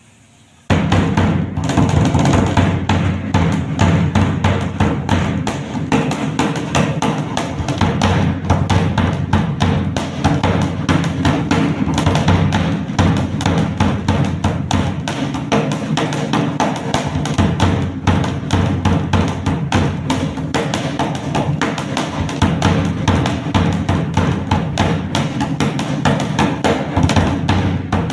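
Dhak, a large double-headed barrel drum, beaten with sticks in a fast, dense, unbroken rhythm that starts abruptly about a second in.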